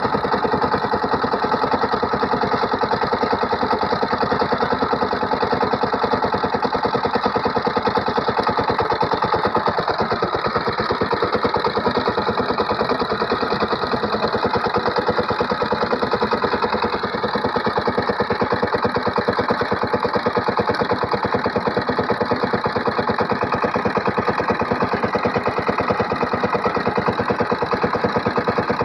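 SIFANG power tiller's single-cylinder diesel engine running steadily, with rapid, even firing pulses and a brief slight dip partway through.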